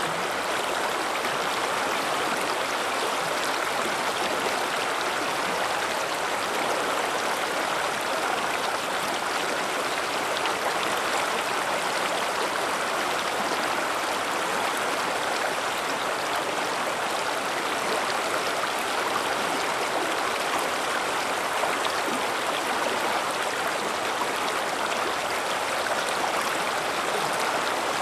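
A river's flowing water rushing and splashing over rocks: a steady, even sound that does not let up.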